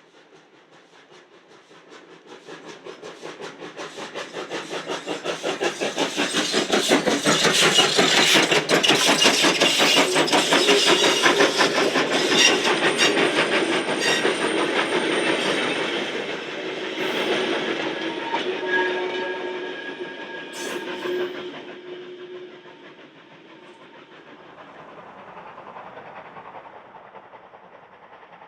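A steam train passes, growing louder to a peak and then fading away, with a fast, even beat through the loudest part. A few seconds of steady tone sound as it draws away.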